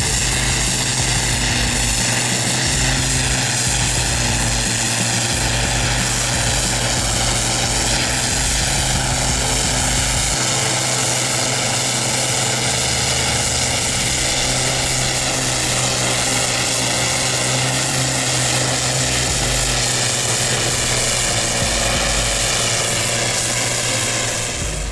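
An engine running steadily at a constant speed: an unbroken drone with a strong low hum.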